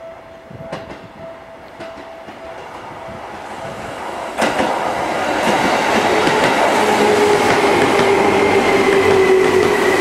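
Seibu 2000-series electric train pulling in along the station platform. Its running noise grows as it approaches and turns loud about four and a half seconds in as the cars pass close by, wheels rolling on the rails. From about seven seconds in, a thin whine slowly falls in pitch as the train slows.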